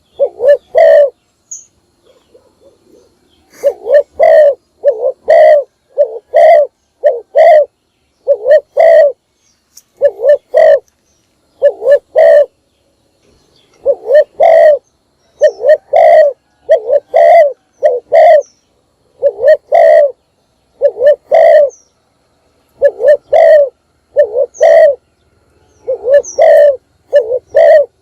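Spotted dove cooing loudly: repeated phrases of a few short, low coos each, with pauses of a second or two between phrases. It is the advertising call of a male decoy dove, used to call in wild doves.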